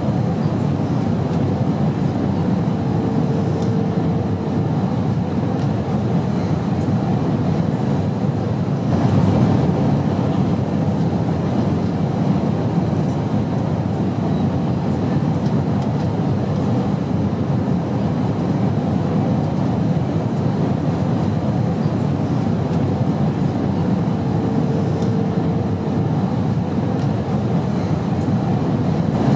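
Airplane noise: a steady low rumble that swells slightly about nine seconds in, with a faint short tone heard twice.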